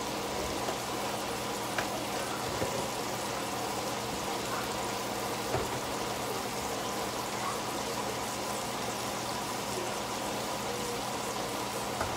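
Ground-beef hamburger patties frying in a skillet: a steady sizzle with a few faint ticks.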